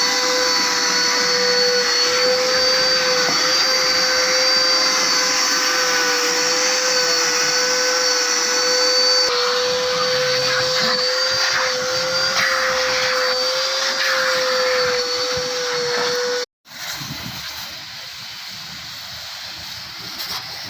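Car-wash vacuum cleaner running steadily with a high motor whine over a rushing hiss. It cuts off abruptly about sixteen seconds in, and a quieter rushing noise follows.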